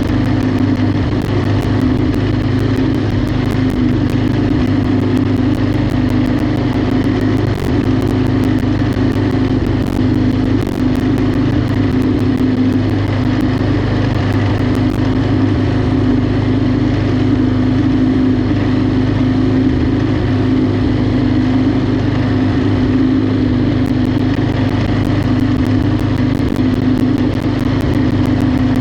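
Riding lawnmower engine running at a steady speed, a loud, even drone with no let-up.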